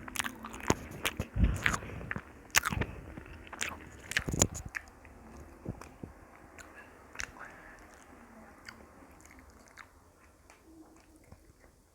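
Close-miked eating: a person biting and chewing food, with several loud, sharp bites in the first five seconds, then softer chewing.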